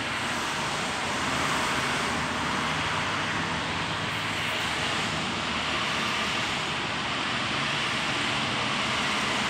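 Steady background noise like road traffic, even and unbroken, with no separate knocks or calls standing out.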